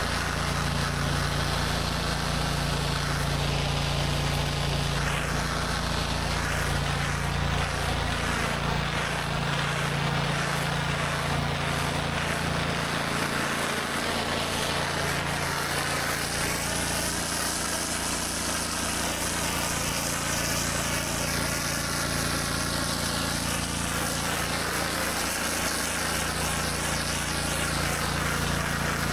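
Gas-engine pressure washer running steadily under load, with the continuous hiss of high-pressure water spraying onto concrete.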